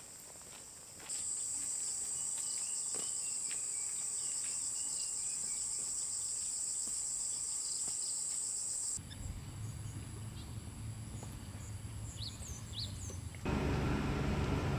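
Steady, high-pitched insect buzz that starts about a second in and cuts off sharply about nine seconds in. After it come a low rumble with a few short bird chirps, and then a louder rushing noise near the end.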